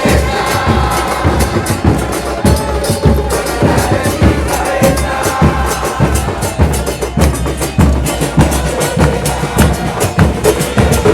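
Football supporters chanting together over bass drums beaten in a steady rhythm.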